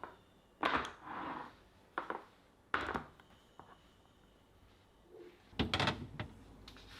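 Kitchen handling sounds: several separate knocks and clunks as things are set down or moved, with a cluster of them about two thirds of the way through.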